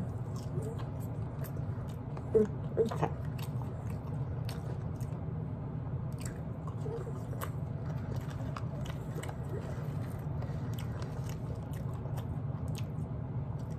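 Close-up chewing and biting of French fries: wet mouth clicks and soft crunches, with a few louder bites about two to three seconds in, over a steady low hum.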